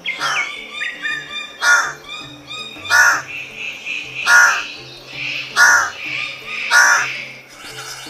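A bird calling five times at even intervals, about one call every 1.3 seconds, each call sweeping down in pitch, over soft background music.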